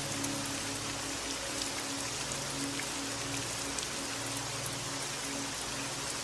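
Steady rain falling, an even hiss with scattered drop ticks, over soft slow music of sustained low held notes.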